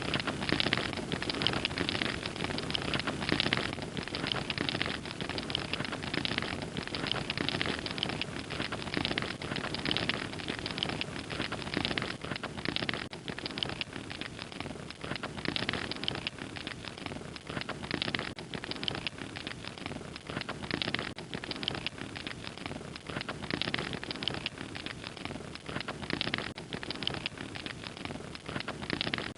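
Fire crackling: a steady hiss with dense, irregular pops and snaps.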